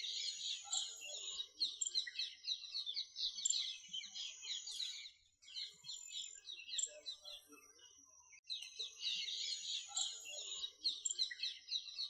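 Birds chirping and twittering, a dense run of short, high, rapid calls; they thin out and nearly stop for about a second past the middle, then start again.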